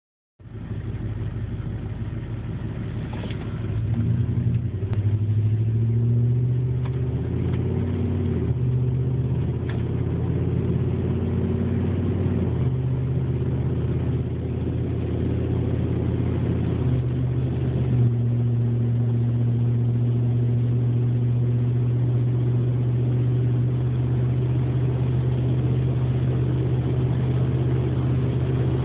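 Engine and road drone of a 1999 Dodge Durango heard from inside the cabin. The drone grows louder about four seconds in as the SUV pulls away, steps in pitch a few times, then settles into a steady cruise.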